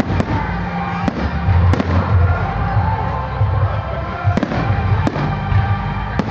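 Aerial fireworks shells bursting, a series of sharp bangs roughly every second, six in all.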